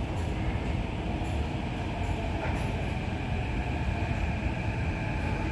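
Steady low rumble and hum of a Kawasaki–CRRC Qingdao Sifang CT251 metro train, heard from inside.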